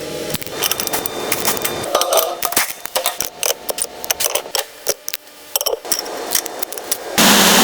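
Rapid, irregular mechanical clicking and tapping, like workshop tools at work. About seven seconds in, a loud, steady spray hiss begins, as from a compressed-air spray gun.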